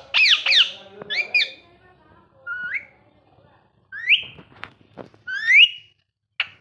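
Ringneck parrot calling: a few sharp high chirps, then three rising whistles about a second and a half apart, and a short squeak near the end.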